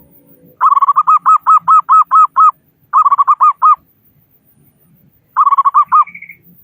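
Zebra dove (perkutut) cooing in three quick rhythmic phrases: a long run of about nine coo notes, a shorter run of about five, then a short run of four that ends on a higher note.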